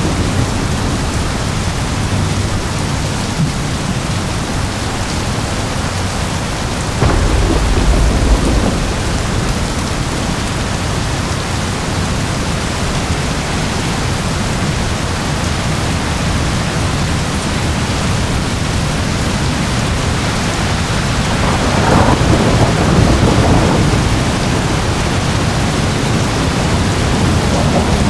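Steady rain falling, with a sudden low thunderclap about a quarter of the way in and a longer rumble of thunder swelling and fading about three quarters of the way in.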